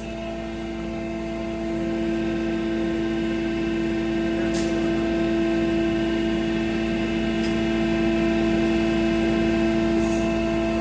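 Animal-feed pulverizer running with a steady hum, getting a little louder about two seconds in, with a couple of faint ticks.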